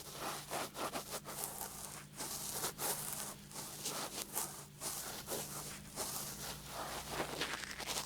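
Close rubbing and scraping strokes against a 3Dio binaural microphone, quick and irregular, a few a second, over a faint steady hum.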